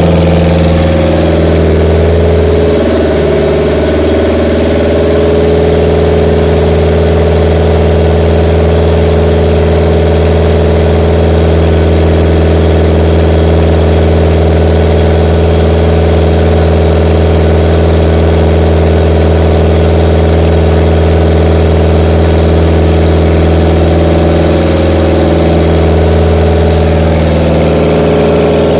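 Toyota 3C 2.2-litre four-cylinder diesel engine idling warm, its idle speed dipping and shifting slightly about three seconds in and again near the end.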